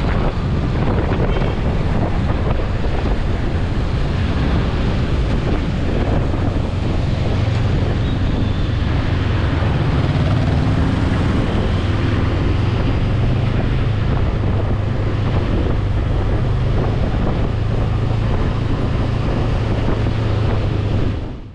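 Heavy wind buffeting the microphone while riding a motorbike at speed, with a steady low engine hum underneath; it fades out at the end.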